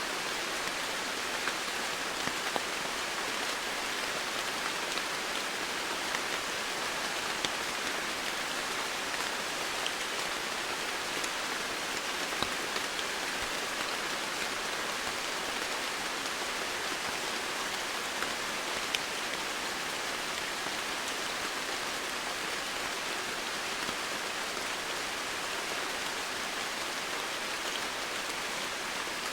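Steady heavy rainfall, an even hiss with scattered louder single drops ticking through it.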